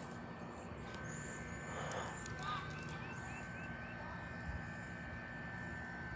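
Outdoor ambience with birds chirping: a few short high chirps early on, then a run of five quick, evenly spaced notes, over a steady faint high tone.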